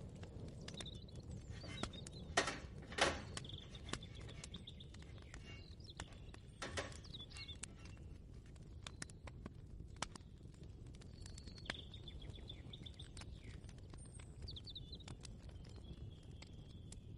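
Small birds chirping and trilling on and off, over a steady low rumble, with scattered light clicks and two louder knocks about two and a half and three seconds in.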